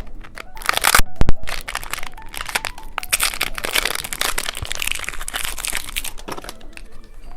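Plastic candy packaging being crinkled and handled, with a few sharp cracks about a second in, as a novelty cookie-egg candy is opened.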